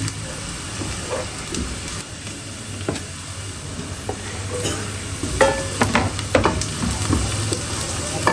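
Food sizzling as it fries in a pan, with a cooking utensil stirring and knocking against the pan several times, most often about five to six and a half seconds in.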